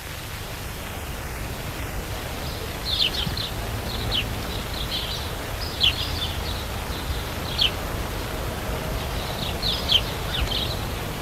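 Outdoor ambience: a steady low rumble with small birds chirping, short high chirps in little clusters from a few seconds in.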